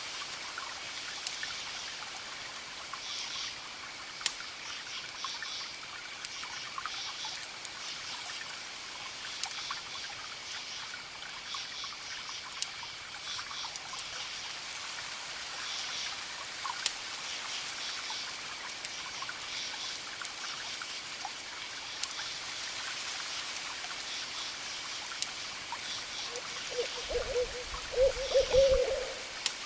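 Campfire crackling with scattered sharp pops over a steady trill of crickets and pulsing insect chirps. Near the end a wavering animal call, the loudest thing here, sounds twice.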